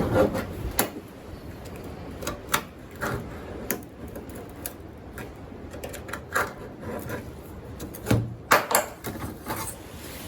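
Sheet-metal patch panel being handled and fitted on a car body: irregular light metallic knocks and clicks, with a quick cluster of sharper knocks about eight seconds in.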